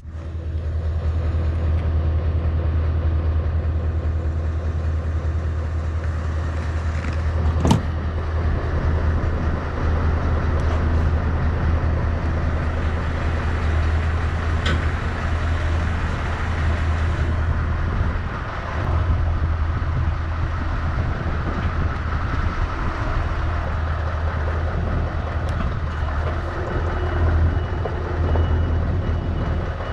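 Scania S650's V8 diesel truck engine running steadily with a deep, even drone. A single sharp click comes about eight seconds in, and a reversing alarm starts beeping near the end.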